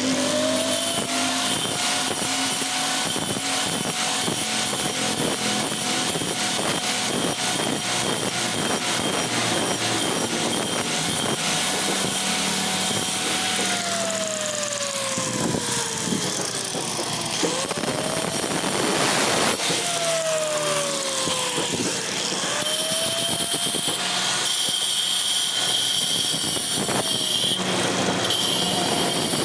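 A power tool's motor runs up to speed, holds steady, then winds down, several times, over continuous gritty working noise.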